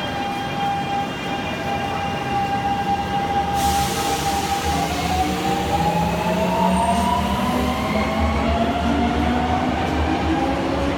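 Subway train pulling out of the station: a hiss of air about three and a half seconds in, then the traction motors' whine rising in pitch as the train picks up speed, over a steady low rumble.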